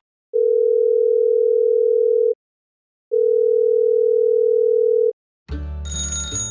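Two long, steady electronic beeps at one mid pitch, each about two seconds, with a short pause between them; music comes in near the end.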